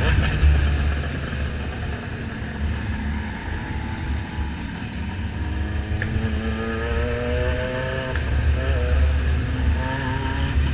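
Motorcycle engine under acceleration, its pitch climbing for a couple of seconds about halfway through and climbing again twice after short breaks, over a heavy wind rumble on the microphone.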